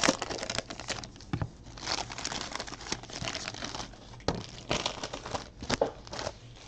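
Plastic trading card pack wrappers crinkling and tearing as packs are opened and handled, in irregular rustling crackles that flare up at the start and again a few seconds in.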